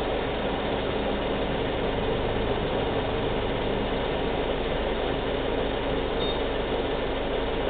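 Subaru Outback's 2.5-litre flat-four engine idling steadily, run so the freshly refilled CVT fluid warms up enough for a level check.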